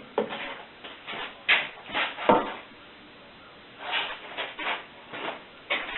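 Petrobond casting sand being scooped and packed into a moulding flask: about seven short, irregular scraping and rustling strokes with quiet gaps between.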